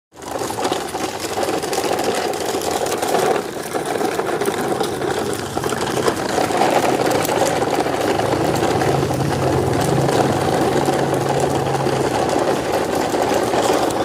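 A motor running steadily, with a low steady hum joining in for several seconds in the middle.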